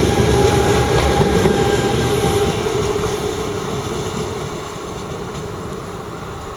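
Train running on the tracks, a dense rumble with a steady humming tone that stops about two and a half seconds in, then the noise gradually fades.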